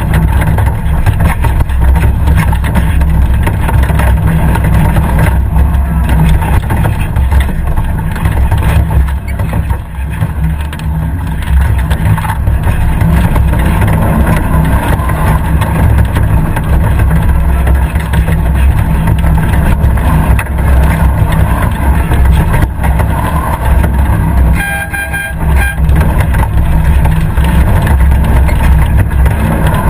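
Competition safari 4x4's engine running hard as the car drives over a rough dirt course, heard loud from a camera mounted on the car. The engine note eases briefly about ten seconds in and again about 25 seconds in.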